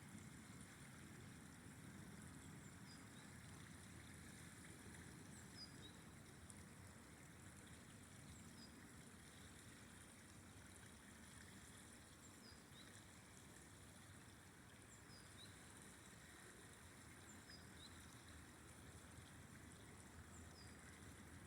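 Faint, steady rush of a flowing river, with short high chirps sliding downward every second or two from a small bird.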